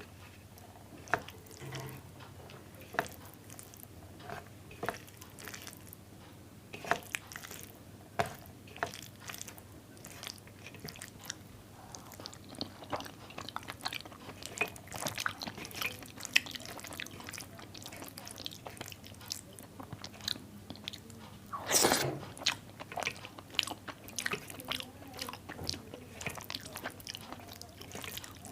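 A person eating rice mixed with mashed potato and pumpkin, with close chewing and mouth smacks and scattered small clicks. A louder, longer crunchy burst comes about 22 seconds in.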